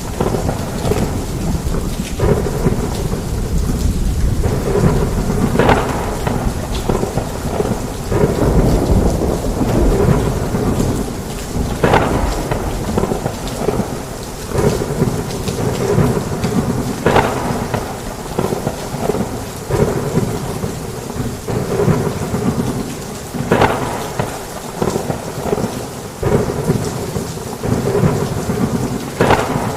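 Heavy rain falling steadily with low rumbling thunder, and sharp louder hits every few seconds.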